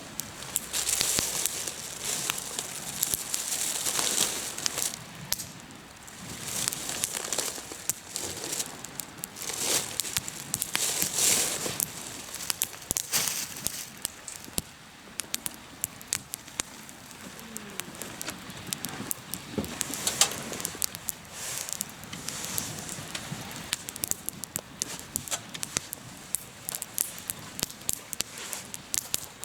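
Hardwood campfire burning in a fire stand, crackling and popping steadily, with a rushing hiss that swells and fades every few seconds.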